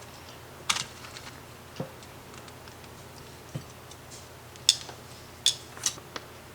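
Scattered sharp clicks and light knocks from handling things in a kitchen, about six of them, over a faint steady hum.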